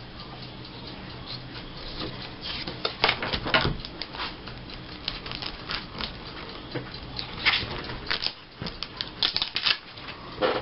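Paper and cardstock being handled on a tabletop: irregular rustles with light taps and clicks, busiest about three seconds in and again near the end.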